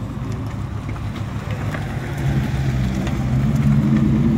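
Dodge Challenger's V8 engine rumbling as the car drives slowly past. The revs and loudness rise a little through the second half.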